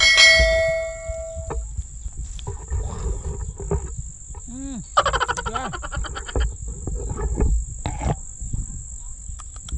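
A steady, high insect drone over the rumble of wind on the microphone. A ringing tone opens, and a few short calls that rise and fall in pitch come around the middle.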